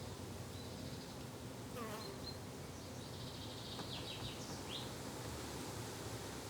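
Garden ambience of insects buzzing steadily, with faint, short, high bird chirps scattered through and a little cluster of them a bit past the middle.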